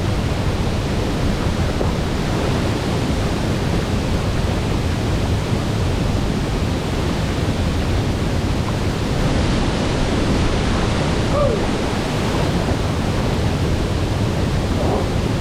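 Waterfall crashing into a pool: a loud, steady, unbroken rush of water, heaviest in the low end.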